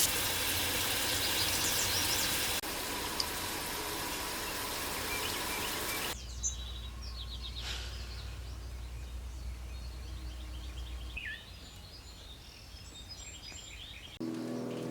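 Outdoor morning ambience: a steady rushing noise for the first six seconds, then quieter with small songbirds chirping and trilling repeatedly.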